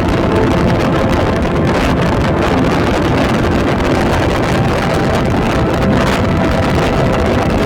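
Passenger train running at speed: a steady rumble and rush of the coaches on the track, with wind buffeting the microphone.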